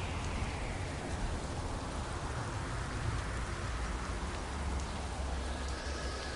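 Steady rain falling, an even hiss of drops, with a low rumble of distant thunder underneath.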